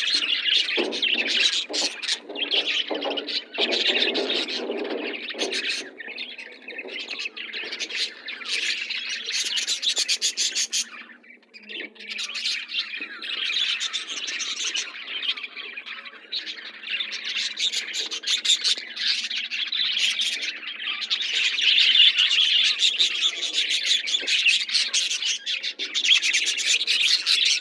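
A group of pet budgies and lovebirds chattering with rapid high chirps and squawks, dense and overlapping, with a brief lull about eleven seconds in.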